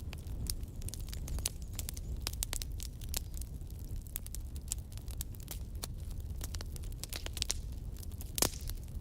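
Wood fire burning in a fireplace: a steady low rumble of flames with frequent sharp crackles and snaps, and one louder pop about eight and a half seconds in.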